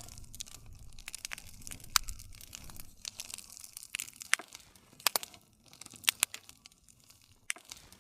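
Campfire burning: the wood crackles and pops at irregular moments over a soft low rush of flame. The low rush is stronger in the first half.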